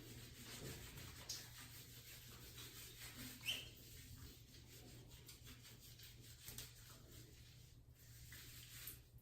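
Faint, irregular rubbing and rustling with a few small clicks, over a steady low hum.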